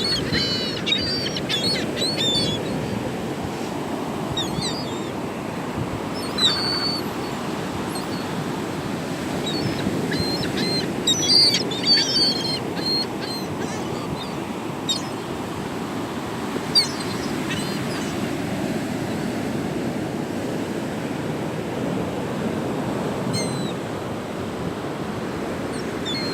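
A flock of gulls calling in short, high cries that come in scattered clusters, busiest a little before halfway through, over a steady rush of surf and wind.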